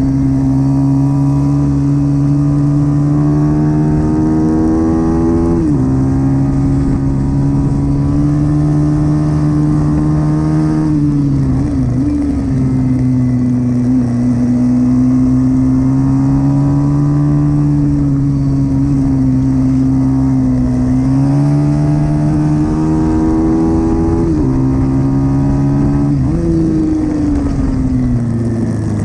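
Pit bike's small single-cylinder engine running hard at high revs. Its pitch holds high, then drops sharply about four times as the throttle comes off.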